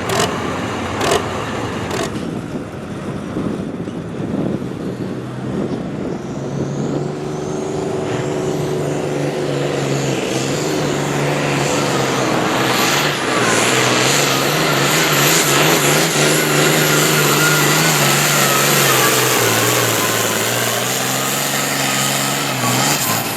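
Farm stock pulling tractor's engine working hard under load as it pulls the weight sled down the track, building up about a few seconds in and held at full power, with the pitch sagging slightly near the end.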